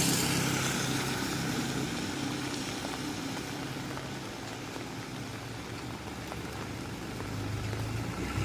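Motor-vehicle noise with the hiss of rain and wet road. It fades over the first few seconds, stays steady, then grows louder again near the end.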